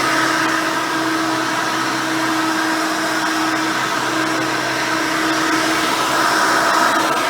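Custom Hoover Elite 600 upright vacuum cleaner with a single-row brush roll running steadily: a constant rush of air with a steady hum.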